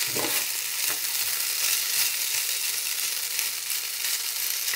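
Julienned potato strips sizzling steadily in hot oil in a frying pan, stirred and scraped with a metal spoon.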